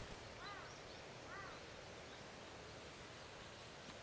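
Two short arched bird calls, about half a second and a second and a half in, over faint open-air ambience.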